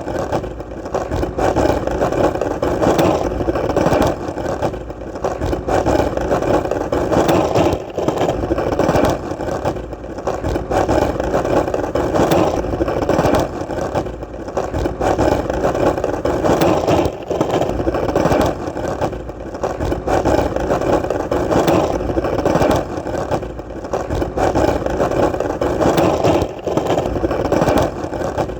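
Skateboard wheels rolling on hard ground: a continuous rumbling hiss that swells and dips every second or two, with many small clicks and knocks.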